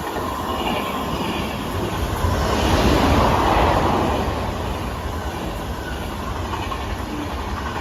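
Two coupled TGV trainsets passing through the station without stopping: a steady rush of wheel and rail noise that swells loudest about three seconds in.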